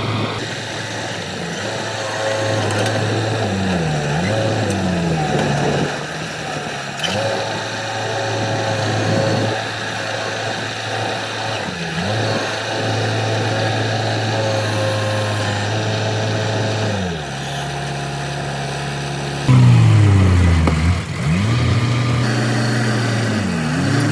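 Heavy diesel engine of construction equipment working under load, its pitch repeatedly dropping and climbing as it is revved up and down. It gets louder and revs harder about twenty seconds in.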